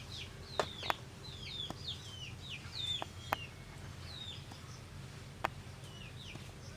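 Birds chirping in a steady stream of short chirps, each falling in pitch. A few sharp clicks stand out, loudest about half a second in, just before one second, and near the middle.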